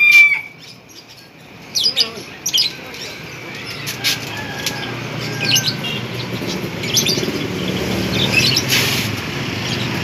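Small caged birds chirping in short scattered calls over a low background din. A rooster's crow breaks off right at the start.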